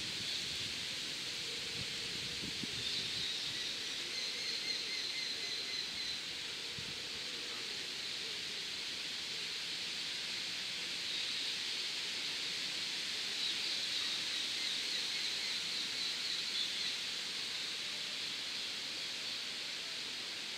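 Outdoor ambience: a steady high hiss with faint, thin bird calls that come in about three seconds in and again around the middle.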